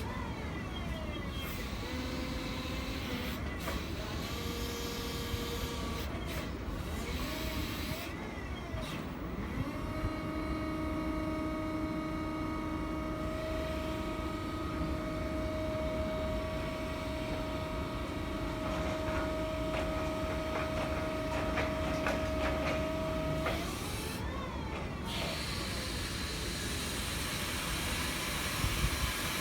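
Electric forklift truck working: its electric motor whines, gliding up and down in pitch, then holds a steady tone for about thirteen seconds before gliding again, over a low hiss and rumble.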